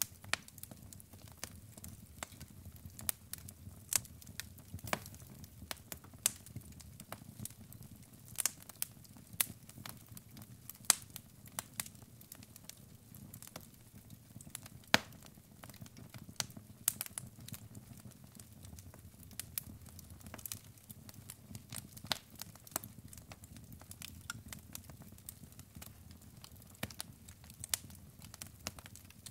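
Wood fire burning in a fireplace: irregular crackles and sharp pops of burning logs over a low steady rumble, with a few louder pops scattered through.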